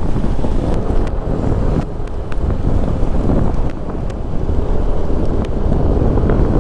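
Wind rushing over an action-camera microphone on a moving motorcycle, with the motorcycle's engine running faintly underneath as it climbs a mountain road.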